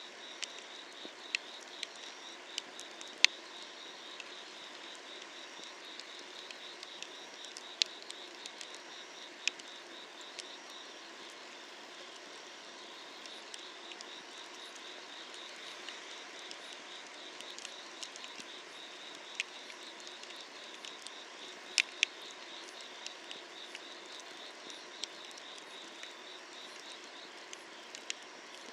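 Wood fire crackling under an iron cauldron, with scattered sharp pops; two loud ones come in quick succession about three quarters of the way through. Behind it, night insects keep up a steady pulsing trill.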